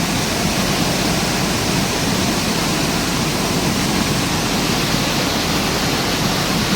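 Steady rush of a monsoon waterfall, water pouring down the mountainside in an even, unbroken noise.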